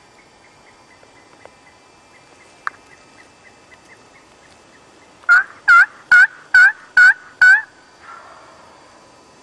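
A run of six loud turkey yelps, about two to three a second, each a short note that dips and rises in pitch. Before them come a faint, regular ticking of about four a second and a single sharp click.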